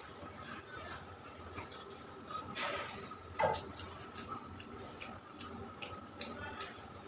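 Close-miked mouth sounds of a person eating rice and curry by hand: wet chewing, lip smacks and scattered small clicks, with a couple of louder squelchy bursts a little before the middle.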